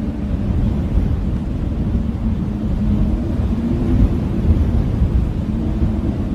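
Blizzard wind blowing hard and steadily: a deep gusting rumble with a faint wavering howl.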